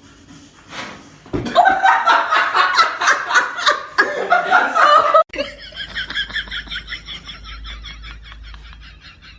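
A person laughing hard in quick bursts, cut off abruptly about five seconds in. A quieter sound with a fast, even pulsing follows.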